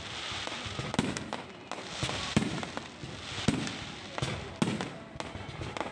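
Low-altitude fireworks going off: a sharp bang roughly every second, some with a deep thump, over a continuous crackling hiss.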